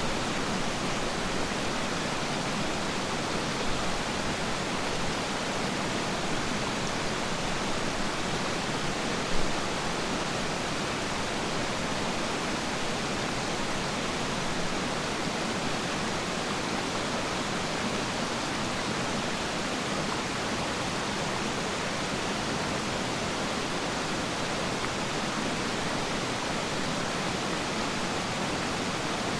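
Waterfall water falling and splashing in a steady, unbroken rush, with one short louder moment about nine seconds in.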